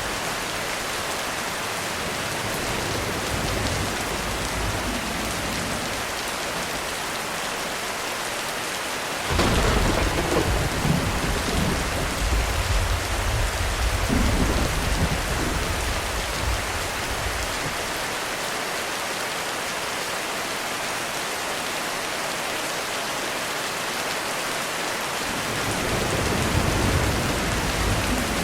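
Heavy rain falling steadily on a roof. About nine seconds in, a thunderclap breaks out and rumbles on for several seconds, and another low roll of thunder builds near the end.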